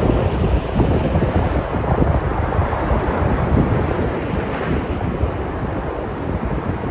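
Sea surf: waves washing and breaking on the shore in a steady rush, with wind rumbling on the microphone.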